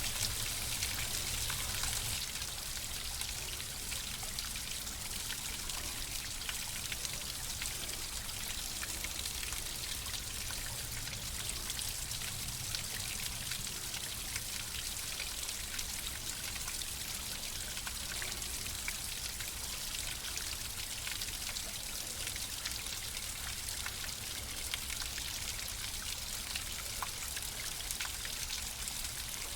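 Flowing water: a steady rush with many fine drips and splashes, a little louder for the first two seconds.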